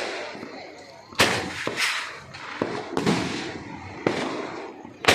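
Fireworks going off: a run of about five sharp bangs over a few seconds, each trailing off into a short rush of noise, the loudest about a second in and at the very end.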